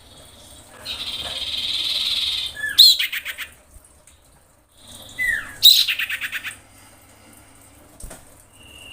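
Female common iora (cipoh) calling to males in breeding condition: a harsh churr of about two seconds, then a quick rattling run of sharp notes that fades. About two seconds later a short falling whistle leads into a second rattling run.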